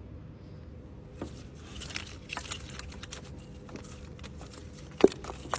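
Irregular light clicks, taps and rattles of parts being handled in an engine bay while ignition coil packs are worked loose, with one sharper knock about five seconds in.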